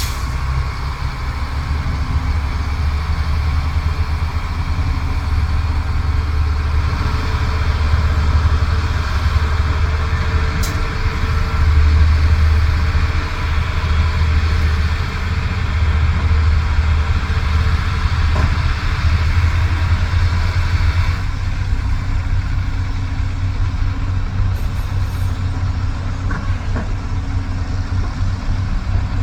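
Dump truck's heavy diesel engine running steadily with a deep low rumble. It swells a little partway through, then eases slightly.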